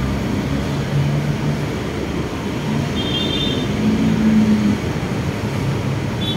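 Steady noise of running vehicles with a low engine hum that wavers in pitch, and a brief high tone about three seconds in.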